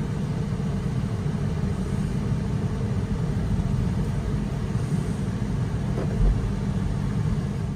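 Engine and road noise inside the cabin of a 2021 Mini Cooper S, its 2.0-litre turbocharged four-cylinder driving slowly: a steady low drone.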